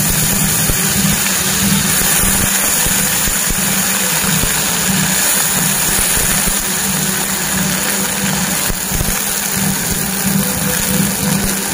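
Potato cubes sizzling steadily in a hot-oil tempering of cumin seeds and green chillies in a steel kadhai, over a steady low hum.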